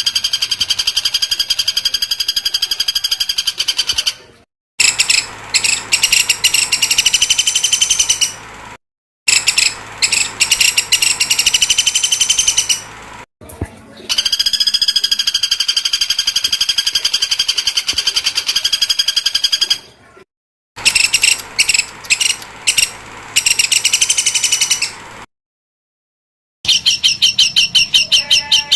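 A songbird's rapid, buzzing trill: very fast, evenly repeated high notes held for several seconds at a time. The bursts stop abruptly into brief silent gaps, about five times, as an edited, looped song recording.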